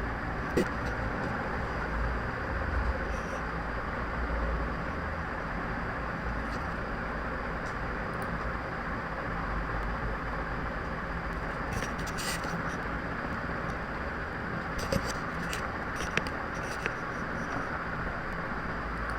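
Steady background noise, a low rumble with hiss, with a few light clicks, one near the start, some about twelve seconds in and a few near the end.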